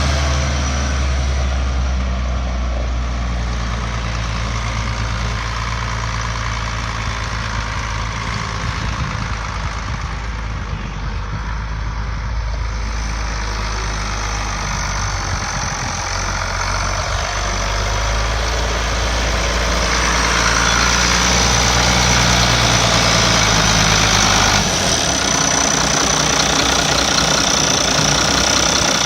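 1972 International Harvester 966 tractor engine idling steadily, its low note shifting about 25 seconds in.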